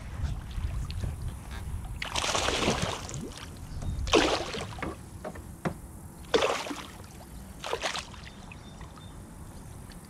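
Water splashing in four short bursts as a hooked smallmouth bass thrashes at the surface beside the kayak while being landed.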